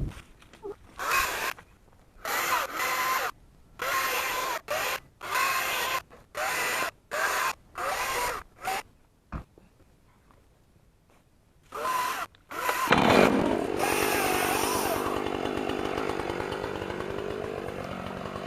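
Chainsaw engine run in about a dozen short throttle bursts, each under a second. After a few seconds of near quiet broken by one sharp click, it runs again without stopping, revving briefly and then settling into a steady sound that slowly fades.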